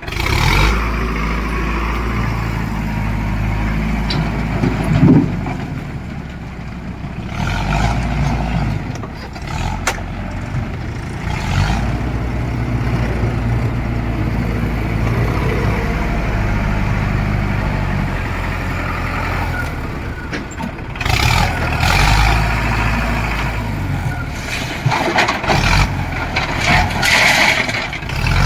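Heavy diesel engine running steadily, with several bursts of louder, higher-pitched noise.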